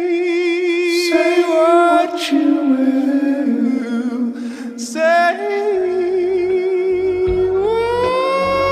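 A song from a playlist: a sung vocal holding long, wavering notes with breaths between phrases, joined by a low bass line about six seconds in.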